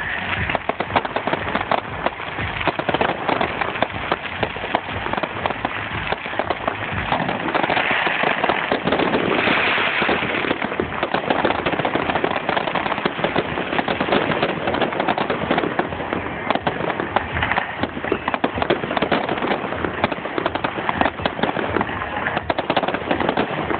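Fireworks display: a dense, continuous barrage of cracks and bangs from many fireworks going off in quick succession.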